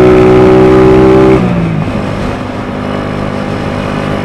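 SSR Razkull 125 pit bike's small single-cylinder engine running at steady high revs. About a second and a half in, the throttle closes and the engine note drops in pitch and gets quieter, settling into a lower, rougher run.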